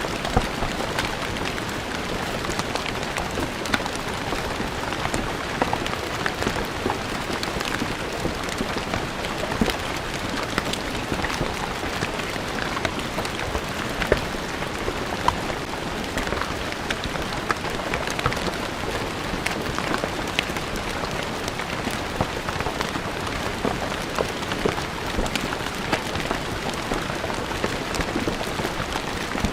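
Steady rain falling on stone ground, a constant patter with many individual drops ticking sharply on the hard surface.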